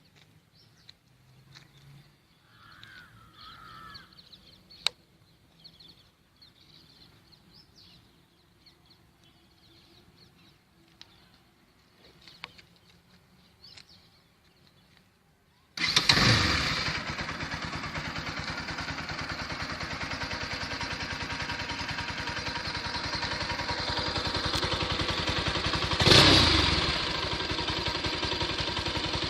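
Bajaj Pulsar AS 200's 199.5 cc single-cylinder engine starting about halfway through and settling into a steady idle through the exhaust, with one brief throttle blip near the end. Before the start there are only faint ambient chirps and clicks.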